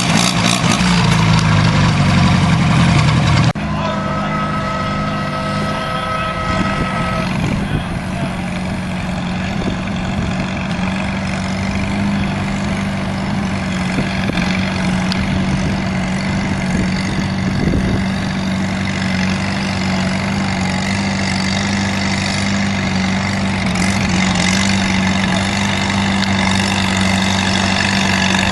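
Tractor engines running: a loud engine that cuts off abruptly about three and a half seconds in, followed by a steady engine hum with a brief high whine.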